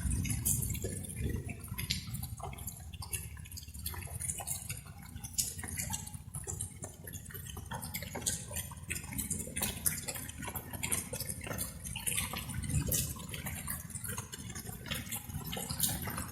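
Light rain falling, with many separate drops dripping close by over a steady low rumble.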